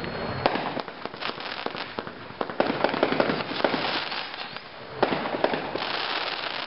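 A 30-shot consumer fireworks cake firing a rapid string of sharp bangs over a thick crackle. Fresh dense volleys come in about two and a half seconds and five seconds in.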